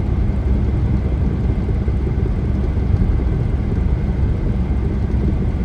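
Steady low rumble of a car driving at highway speed, heard from inside the cabin: tyre and engine noise with no change in pitch.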